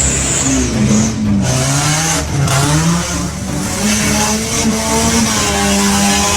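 Car engine revving, its pitch rising and falling several times over a steady rush of road noise.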